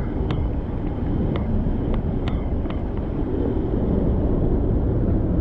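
Wind buffeting the microphone on a moving bicycle, a steady low rumble mixed with road and traffic noise, with a few light sharp clicks or rattles in the first half.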